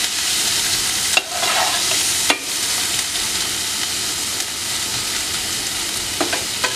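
Chopped onion and garlic sizzling in hot oil in a stainless steel frying pan, toasting toward golden, while a metal spoon stirs and scrapes them. The spoon knocks sharply against the pan about one and two seconds in, with lighter clicks near the end.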